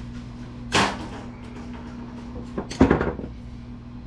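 A sharp knock just under a second in, then a short clatter of clanks near three seconds: the stripped steel case of a desktop computer being handled and set down.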